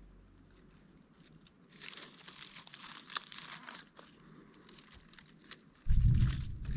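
Irregular crunching and crackling with sharp clicks, a couple of seconds in. About six seconds in, a loud low rumble of wind or handling on the microphone takes over.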